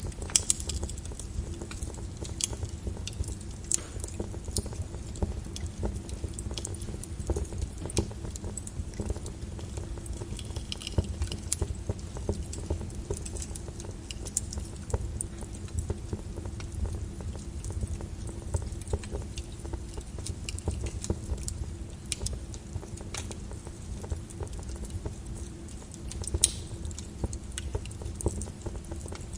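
Flowing lava crackling: many sharp, irregular clicks over a steady low rumble.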